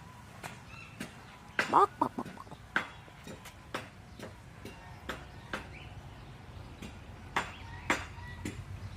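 Chickens calling, with a loud burst of short squawks about two seconds in. Scattered sharp clicks sound throughout.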